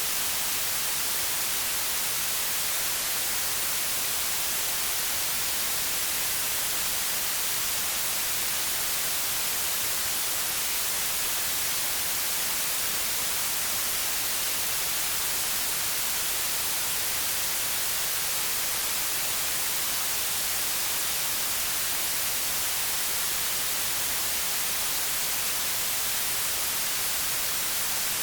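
Steady white noise: an even, unchanging hiss, brightest in the treble, with no events or variation.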